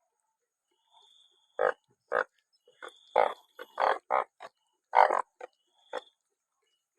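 Narrow-mouthed frogs croaking: about a dozen short, irregular calls, loudest about five seconds in.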